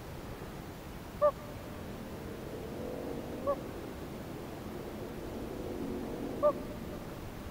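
A bird calling three times, about a second, three and a half and six and a half seconds in, each a single short clear note, the first the loudest, over a steady low background.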